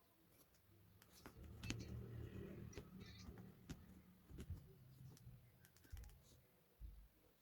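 Near silence with faint scattered clicks and taps over a low hum.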